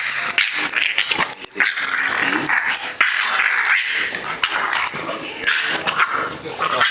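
English bulldogs growling at each other in play while tugging over a shared toy, a near-continuous rough growl with short breaks.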